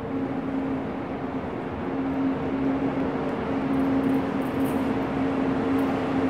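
Train rumbling on the rails with a steady low hum over it, growing gradually louder as it approaches.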